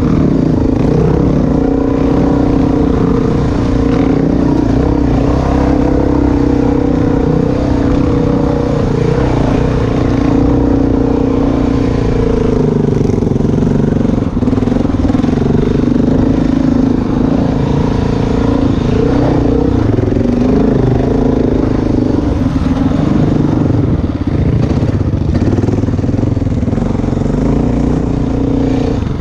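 Dirt bike engine running steadily while riding a rough trail, its note wavering slightly with the throttle.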